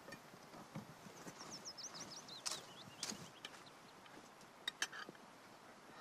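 A bird singing a short run of quick high chirps that fall in pitch, starting about a second in, with a few faint clicks and taps.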